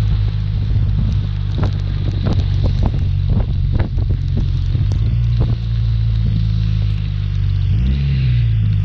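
BMW R1200RT's flat-twin engine running steadily while riding, with wind buffeting the microphone in short gusts. Near the end the engine note rises briefly and then falls back.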